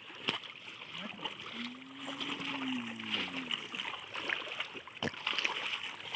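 River water splashing and trickling, with two sharp knocks, one just after the start and one about five seconds in.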